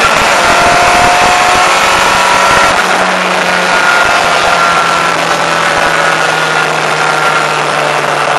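Opel Corsa A engine running hard at speed, heard from inside the cabin along with road and wind noise. About three seconds in the deep rumble drops away and the engine note then holds, sinking slightly.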